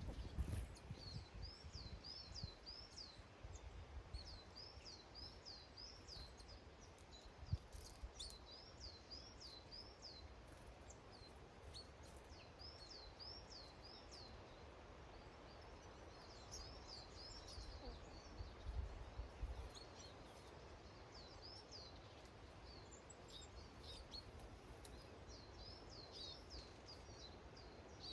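A small songbird singing the same short phrase of three or four quick high notes over and over, about every two seconds, faint against a low background rumble.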